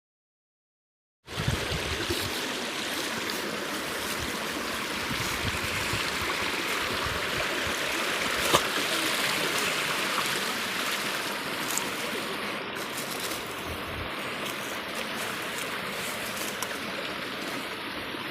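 Stream water rushing steadily, starting abruptly about a second in, with a single sharp click midway.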